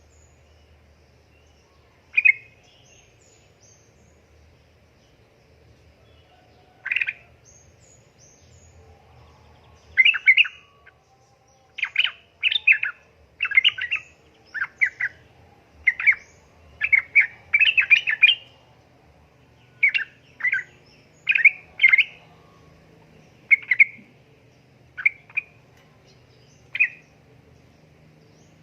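Yellow-vented bulbul (trucukan) calling: short bubbly chirps, a lone one early, another about seven seconds in, then a lively run of rapid calls from about ten seconds in until near the end.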